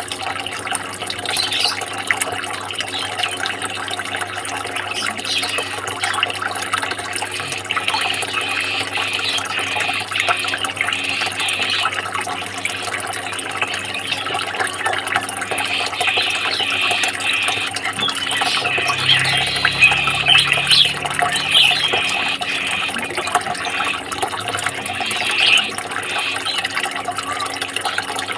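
Steady running, splashing water, with many small irregular high splashes over a constant rush.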